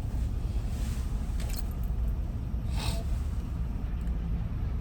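Steady low rumble of a car idling, heard from inside the cabin, with a few brief rustles about one, one and a half and three seconds in.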